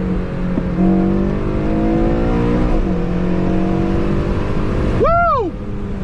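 Car engine accelerating hard in a low gear, revs climbing. The pitch falls once a little under three seconds in, as at a gear change, then climbs again. Just after five seconds a short tone rises and falls, and the engine drops off.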